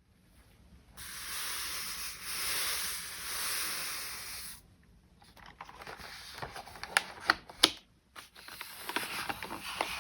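Charcoal drawing on paper: a steady rubbing hiss for about three and a half seconds, then irregular scratchy strokes broken by a few sharp taps.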